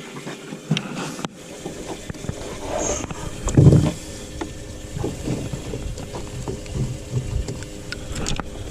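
Scattered knocks and thumps of fish and gear being handled in a fishing boat, the loudest a low thump about three and a half seconds in, over a steady faint hum.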